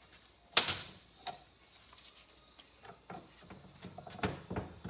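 Metal hand tools and engine parts clinking and knocking during motorcycle engine disassembly. A sharp, ringing metal clank comes about half a second in, followed by scattered lighter knocks and clicks, thickening near the end.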